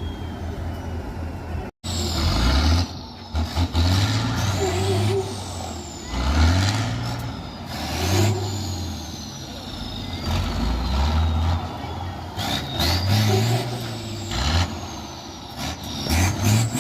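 Tatra truck-trial truck's diesel engine revving hard again and again, each rev rising and falling, with a high whistle that sinks away after each rev and short sharp bursts of noise in between.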